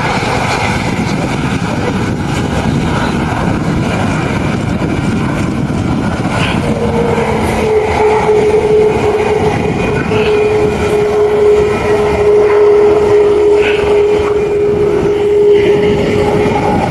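Aircraft engine noise, a loud steady rush, with a steady hum joining in about seven seconds in and fading near the end.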